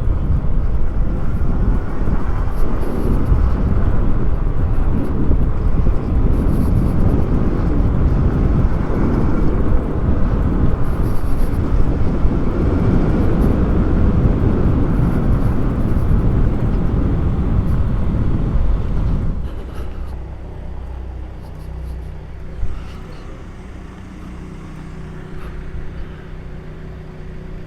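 Wind rushing over the microphone of an electric bike riding at speed. About two-thirds of the way in it falls away sharply, as the bike slows and stops, leaving a quieter outdoor background.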